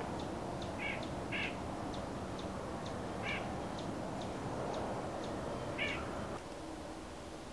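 Outdoor birds calling: four short calls over a steady background rush, with a faint high ticking about twice a second. The rush drops a little near the end.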